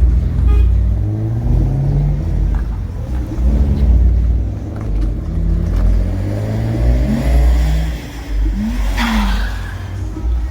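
Car engines revving and accelerating as cars pull away, the pitch climbing several times as they rev up, with a brief rasp about nine seconds in.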